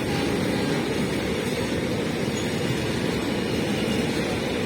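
Goods train passing, a steady rumble of wagon wheels on the rails.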